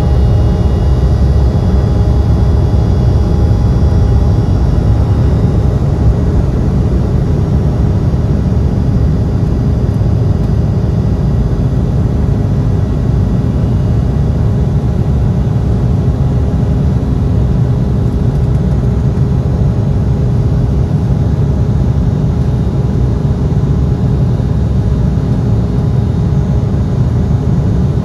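Embraer E175 jet engines running at high power with airflow noise, a steady loud rumble. A few high engine tones fade out over the first several seconds.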